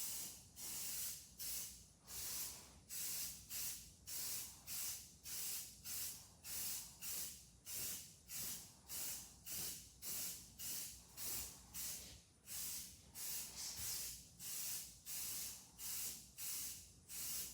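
Primer being sprayed onto a truck's front fender in short hissing bursts, about two a second, one for each pass across the panel.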